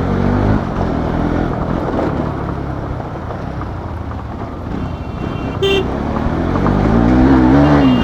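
Bajaj Pulsar NS200 single-cylinder motorcycle engine running under way, with heavy wind and road noise. A brief horn toot sounds just under six seconds in, and near the end the engine revs up and back down.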